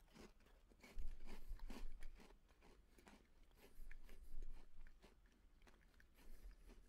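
Biting into and chewing a crunchy Chips Ahoy white fudge chunk cookie close to the microphone: soft crackling crunches, in two louder spells, about a second in and again about four seconds in.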